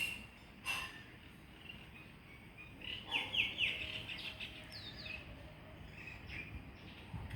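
Birds chirping: a quick run of short, falling high notes about three seconds in, with scattered chirps around it. Two sharp clicks come in the first second.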